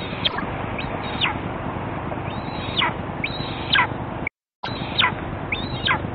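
A bird calling repeatedly: short high whistles that slide steeply downward, about one a second, over a steady hiss. The sound cuts out completely for a moment just past the middle.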